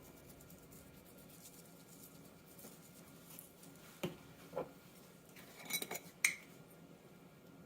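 A few light clicks and taps from a seasoning container being handled and shaken over the dough: two about four seconds in, then a small cluster around six seconds, over faint room hiss.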